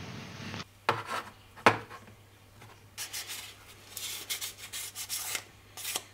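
Sandpaper rubbed by hand over a primer-coated Daiwa Saltist 30H reel side plate in short, quick strokes, lightly sanding the fresh primer to take down high spots and bumps. Two sharp knocks from the part being handled come before the sanding starts.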